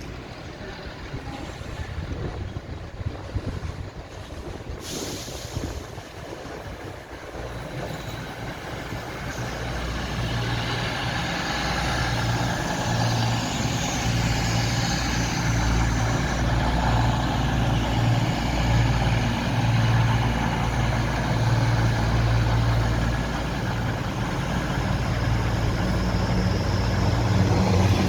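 A diesel train approaching with its engine running, a steady low note that grows louder over the first ten or twelve seconds and then holds.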